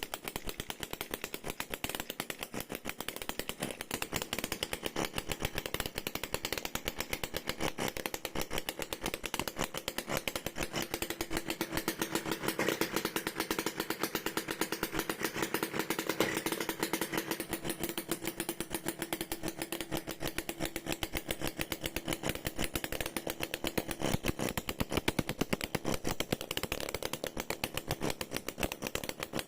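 Homemade 9.5cc two-stroke engine, converted from a refrigerator compressor and run with no exhaust fitted, running steadily on its first test start with a rapid, even firing rhythm.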